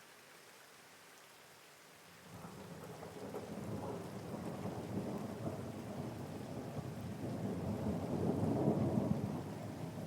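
Steady rain with a long, low rumble of thunder that starts about two seconds in, builds, and is loudest near the end.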